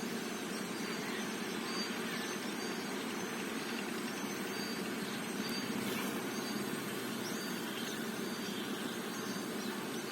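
A steady low rumble throughout, with faint, short, high bird chirps scattered over it.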